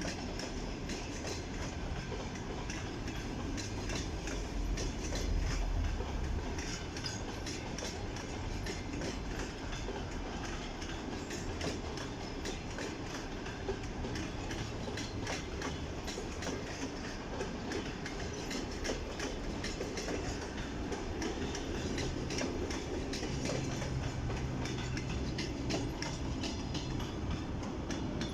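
Passenger train rolling past, its wheels clicking steadily over rail joints under a continuous rumble of wheels on rail.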